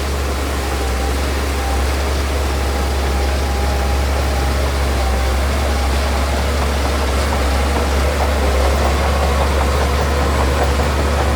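Heavy diesel engine of earthmoving machinery running steadily. A fainter higher tone pulses over it in the second half.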